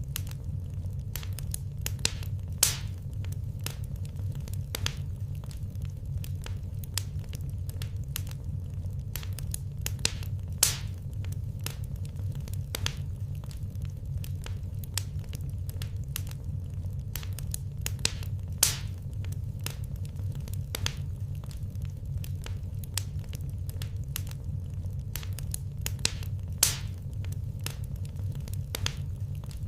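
Wood fire crackling in a fireplace: frequent small pops and ticks, with a louder snap about every eight seconds, over a steady low rumble.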